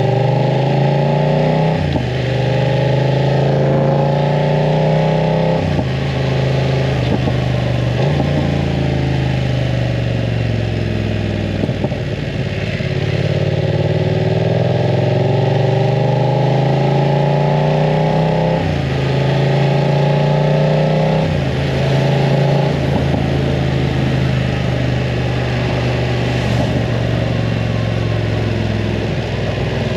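BMW F900 R's parallel-twin engine through a full aftermarket exhaust, riding under acceleration. The engine note climbs and then drops sharply at each gear change, several times over, then runs steadier and lower near the end.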